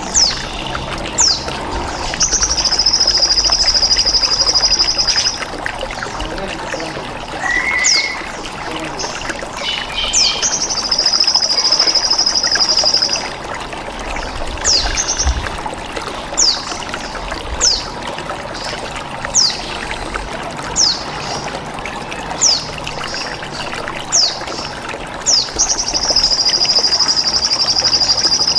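Repeated short, sharp, falling high calls of a sogon bird and chirps, with three long, steady cicada (bren) buzzes, each about three seconds. A constant trickle of running water plays underneath. This is a bird-training mix of birdsong and cicada over water.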